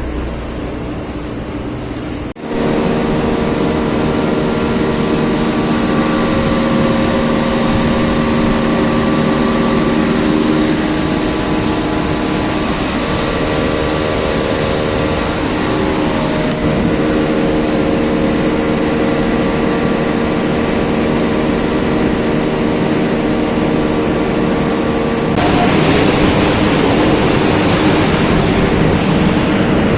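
Air conditioner outdoor units running: a steady fan rush with a hum of several steady tones from the compressor and fan motor. The sound changes abruptly about two seconds in, and again near the end, when it turns more hissing.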